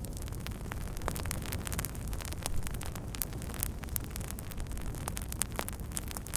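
Wood fire crackling: many sharp, irregular pops and snaps over a steady low rumble.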